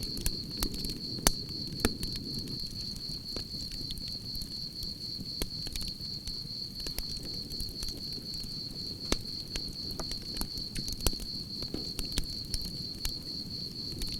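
Campfire crackling, with irregular sharp pops over a low rustling hiss of burning wood, while crickets trill steadily in a continuous high-pitched chirping.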